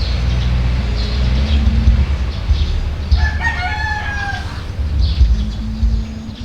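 A bird's long call, about a second and a half, falling slightly in pitch, over a steady low rumble.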